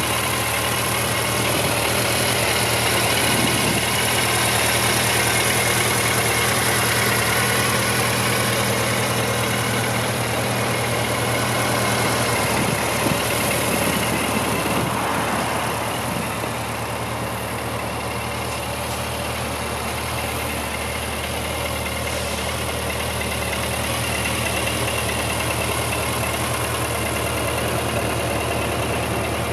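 Suzuki GSX1400's inline-four engine idling steadily.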